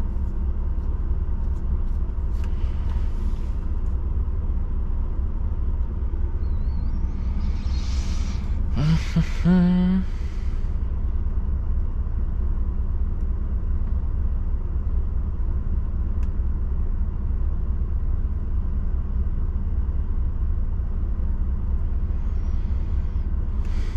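DAF truck driving, heard from inside the cab: a steady low engine and road rumble, with a brief hiss and a short rising whine about nine seconds in.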